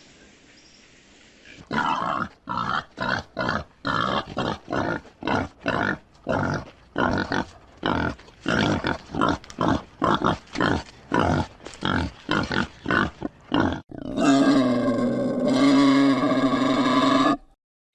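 An animal's short grunting calls in a steady rhythm, about two a second, followed about 14 seconds in by one long pitched call.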